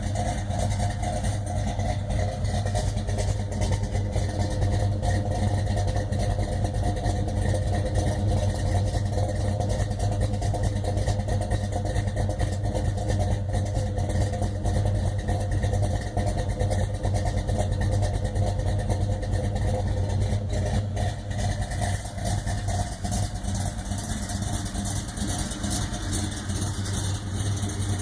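1968 Plymouth Road Runner's 383 cubic-inch big-block V8 idling steadily.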